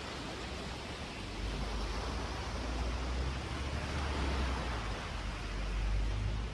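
Wind buffeting the microphone: a low rumble that strengthens about a second and a half in and swells and eases in gusts, over a steady hiss.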